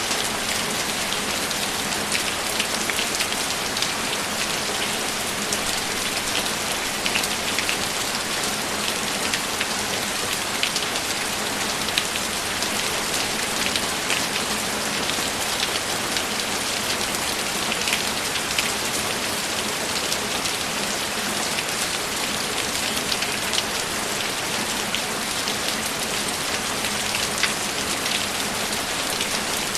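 Steady rainfall, an even hiss with scattered louder drops ticking on a surface.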